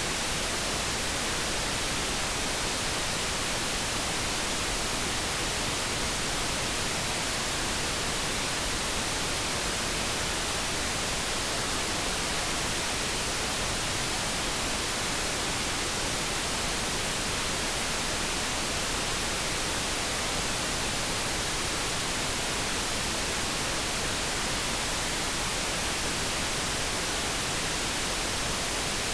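Steady synthesized focus noise, an even hiss that does not change, with no tones or other events.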